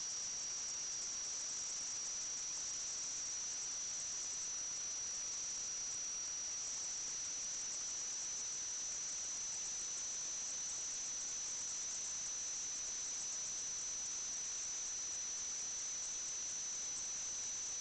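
A steady high-pitched whine, holding one pitch without a break, over a constant hiss.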